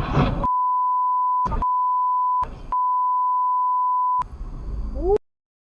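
A steady 1 kHz censor bleep, broken twice by brief snatches of the underlying audio. About four seconds in it gives way to a second of noisy sound with rising tones, which then cuts off abruptly.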